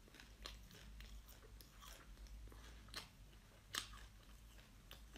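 Faint close-mouthed chewing of fried silkworm pupae, with a few soft crunches, the strongest just before four seconds in.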